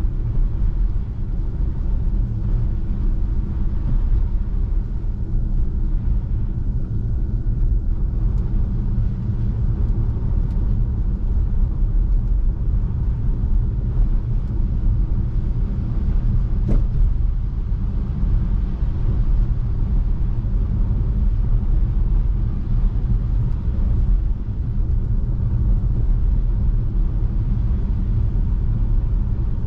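Steady low rumble of tyre and road noise from an electric Tesla Model 3 driving on a snow-covered road, with one faint click a little past halfway.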